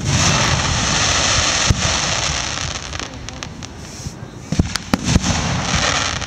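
Aerial fireworks display: a string of sharp bangs of shells bursting at irregular intervals, the loudest near the start and in the last two seconds, with a dense crackling hiss in between.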